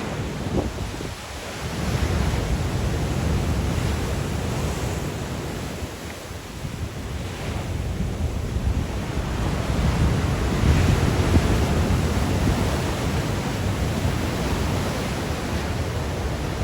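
Sea waves breaking and washing on the shore in strong wind, with wind buffeting the microphone; the surf swells and eases as successive waves come in.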